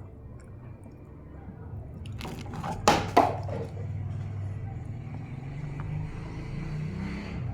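Eating sounds of raw vegetables being chewed. About three seconds in comes a quick cluster of crisp crunches, two of them sharp and loud, as the raw vegetables are bitten, followed by continued chewing.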